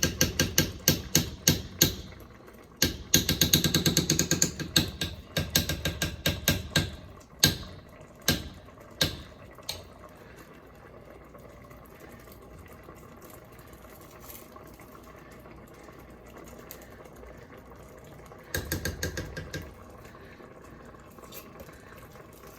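A spoon clacking and scraping rapidly, about five knocks a second, as peanut butter is scooped into the pot. It stops about ten seconds in, and a short second bout of knocks comes near the end.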